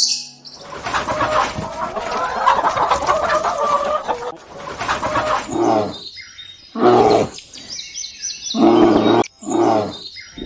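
Farm animal calls: a dense run of overlapping calls for about five seconds, then four separate short calls in the second half.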